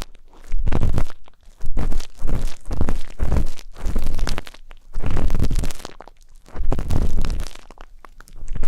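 Ear-pick tip scraping and rubbing inside a microphone's ear in repeated crackly strokes, each with a low rumble.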